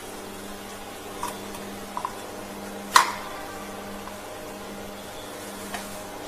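Plastic tube sealing machine running with a steady hum, with a few light mechanical clicks and one loud sharp clack about three seconds in.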